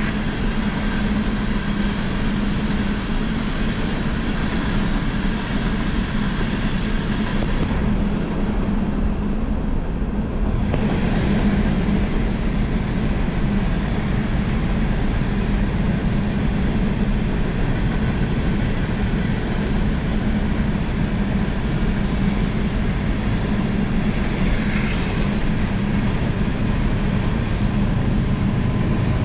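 A train passing, with steady rolling noise and a constant low hum.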